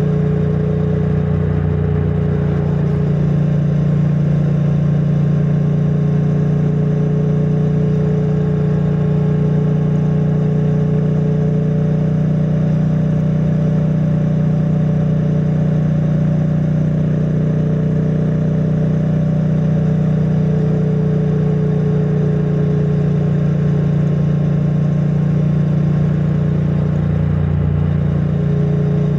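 2022 Triumph Bonneville T100's 900 cc parallel-twin engine on its stock exhaust, running steadily at an even pitch, heard muffled from a microphone inside a rider's backpack.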